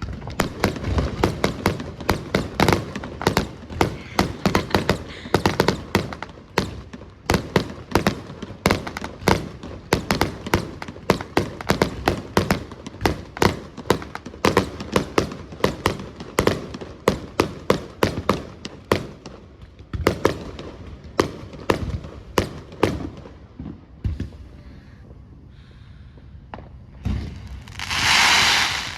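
Fireworks show: a rapid, dense barrage of bangs and crackles that thins out after about twenty seconds, then a loud hissing burst near the end.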